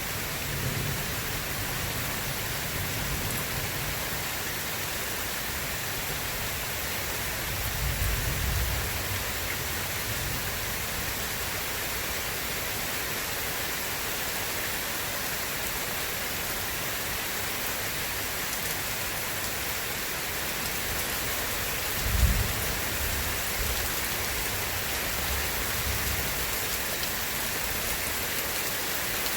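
Steady rain hissing, with low rolls of thunder now and then. The loudest is a sharper clap of thunder about three-quarters of the way through.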